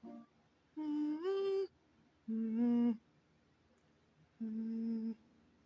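A voice humming three held notes: the first rises partway through, and the second and third are lower and steady.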